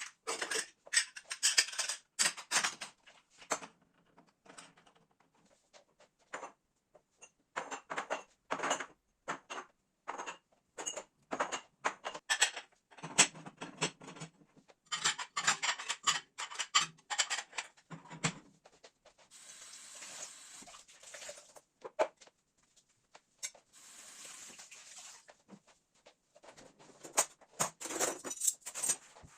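Kitchen items being handled and set down: quick runs of clicks, clinks and knocks. Two stretches of soft hiss come about two-thirds of the way through and again a few seconds later.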